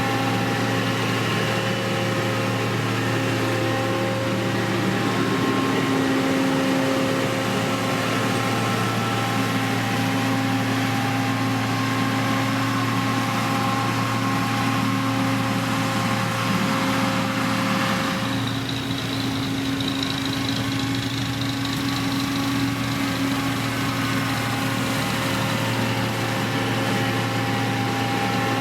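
Diesel engine of a heavy road-construction machine (motor grader or road roller) running steadily. Its pitch shifts briefly about two-thirds of the way through.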